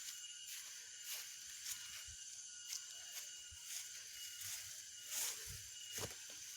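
Faint outdoor background: a steady high hiss with thin steady tones, broken by scattered soft knocks and rustles.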